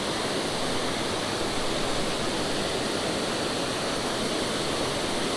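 Steady rushing roar of a creek waterfall, white water pouring without pause.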